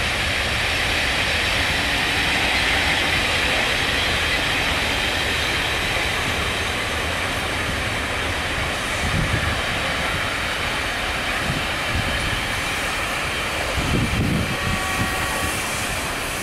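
Coaches of a steam-hauled passenger train rolling steadily past a station platform: a continuous wheel-on-rail rumble and hiss. A few low thuds come around the middle and again near the end, and a faint high squeal shows near the end.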